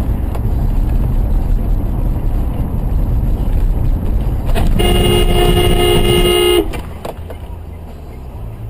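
Car horn held for about two seconds, midway through, over a loud, low rumble of engine and road noise that drops off after the horn stops.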